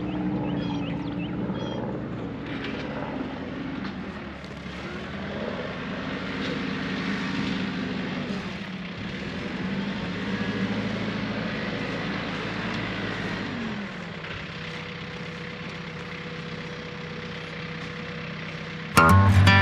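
TYM 4815 compact tractor's diesel engine running steadily while pulling a cutting harrow. Its pitch dips and recovers a few times, then settles lower about 14 seconds in. Guitar music starts right at the end.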